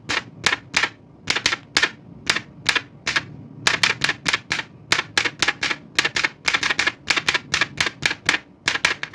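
Keys of an old manual typewriter clacking in a steady typing rhythm, about three to four strikes a second, with a brief pause a little after three seconds in.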